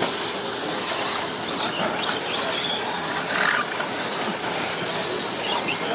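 Several 1/10-scale electric RC short course trucks racing on an offroad track: a steady jumble of electric motor whine and tyre noise on dirt, with short higher-pitched squeals now and then.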